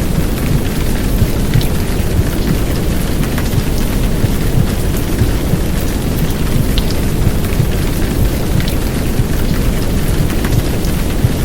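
Heavy downpour rain layered over a dense, low rumbling womb-sound white noise, steady throughout, with scattered sharp drop ticks on top.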